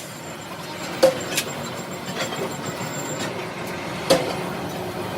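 Metal clanking: sharp strikes with a short ring, a pair about a second in and another near the end, over steady workshop noise.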